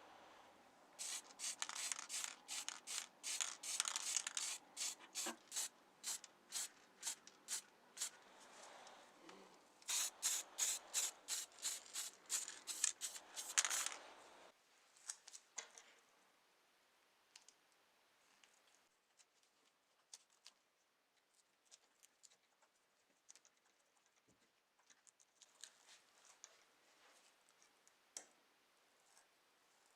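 Quick repeated rubbing strokes, about two to three a second, that stop about halfway through, leaving only faint small clicks and handling noises.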